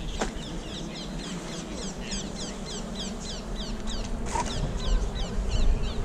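A small bird calling over and over, quick high chirps about three a second that stop about four and a half seconds in, over a low rumble of wind on the microphone.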